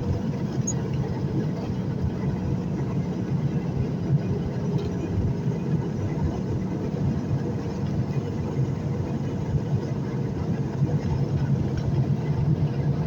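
Steady airliner cabin noise, the engines and rushing air heard from inside the cabin, a low even rumble that grows slightly louder near the end.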